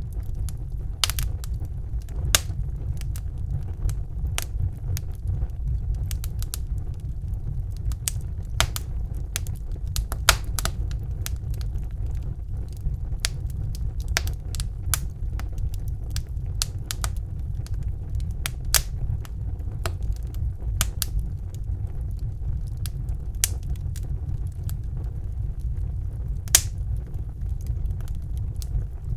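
Wood fire crackling in a fireplace: irregular sharp pops and snaps, a few of them louder, over a steady low rumble of the flames.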